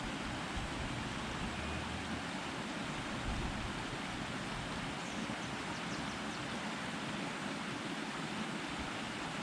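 A creek running full after heavy rain, a steady rushing of water.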